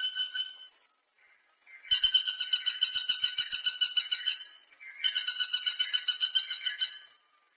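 Woodpecker calling: rapid, evenly repeated notes in a rattling series. A bout fades out just under a second in, then two more bouts follow, each about two seconds long.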